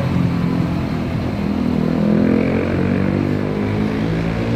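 UD Quester truck's diesel engine running, its pitch rising a little about two seconds in as it is revved slightly.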